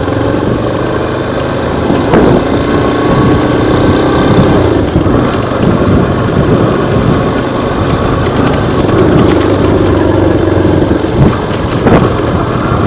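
Yamaha Lander 250 single-cylinder motorcycle engine running steadily while under way, under a loud rush of noise, with a couple of sharp knocks about two seconds in and near the end.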